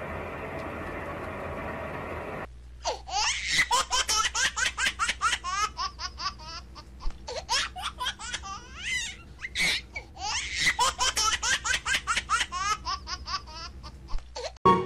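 A person laughing hard and long in rapid, high-pitched bursts. Before the laughter starts, a steady hiss cuts off suddenly about two and a half seconds in.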